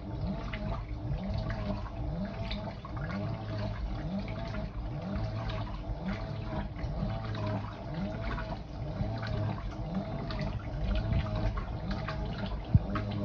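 Fisher & Paykel IW812 top-loading washing machine washing a load: water sloshing in the drum while the motor drives the agitator in even back-and-forth strokes, a short rising motor whine with each stroke, about one and a half a second.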